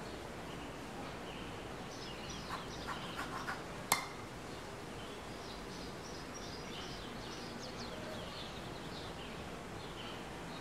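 Small birds chirping over a steady outdoor ambience, with a few light taps and then one sharp click with a brief ring about four seconds in.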